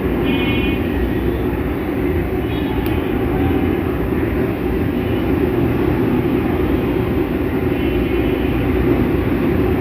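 Steady low rumbling roar from the stove and pan as the spice paste for a chicken curry is fried.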